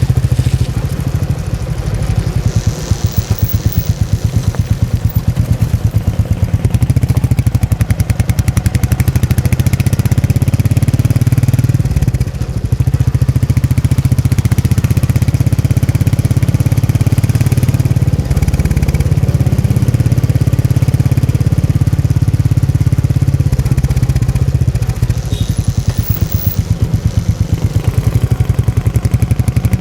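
Royal Enfield Meteor 350's single-cylinder engine and exhaust running, with a steady low pulsing beat that falters briefly about twelve seconds in.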